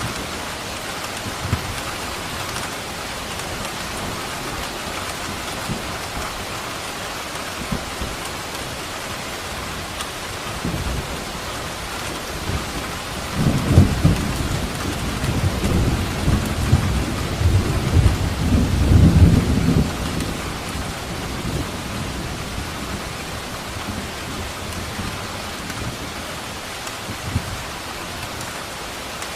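Steady heavy rain falling, with a long rumble of thunder rolling through the middle, about thirteen seconds in and lasting some seven seconds.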